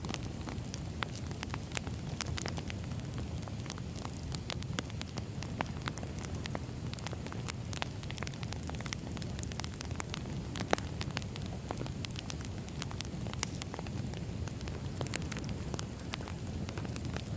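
Burning firewood crackling: a steady low rumble with frequent sharp pops and snaps, one louder pop about eleven seconds in.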